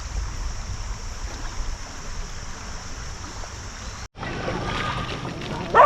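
Kayak paddling on moving river water, with wind rumbling on the microphone. After a cut about four seconds in, a short, loud rising sound comes near the end.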